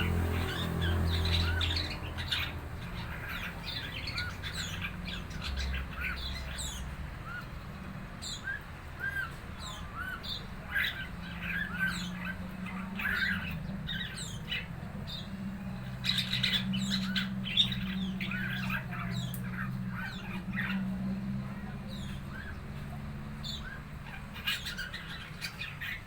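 Young red-eyed ara bird, about four months old, practising its chattering song ('ngeriwik'): a long run of short chirps and squawky notes, coming in irregular clusters. A steady low hum runs underneath.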